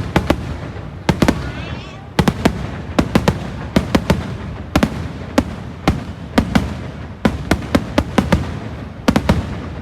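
Fireworks exploding in quick, irregular succession: sharp bangs, often in close pairs or clusters, several a second, over a continuous rumble.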